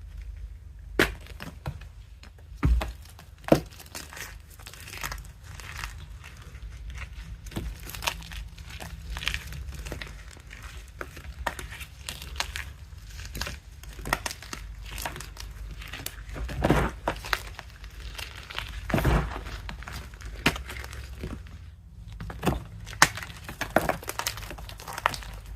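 Blocks of reformed gym chalk being crushed by hand: irregular crisp cracks and crunching as the compressed magnesium carbonate breaks apart and crumbles, with a few sharp snaps and longer grinding crunches.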